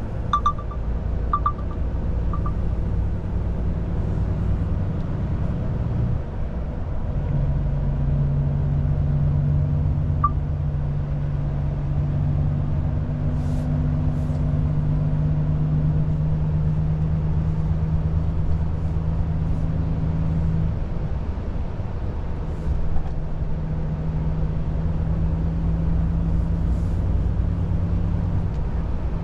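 Volvo FH truck's diesel engine running while driving, heard from inside the cab as a steady low drone, with changes in the engine note about six seconds in and again around twenty seconds in.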